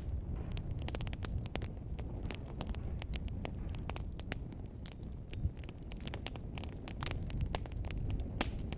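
Wood fire burning in a fireplace, crackling with frequent sharp irregular pops over a low steady rumble of the flames.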